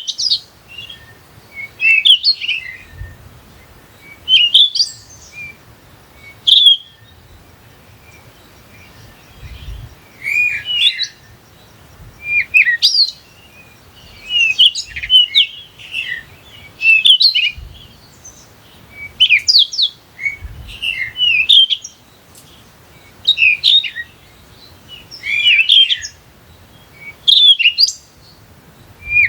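A bird singing short phrases of quick, sweeping chirps, repeated about every two seconds.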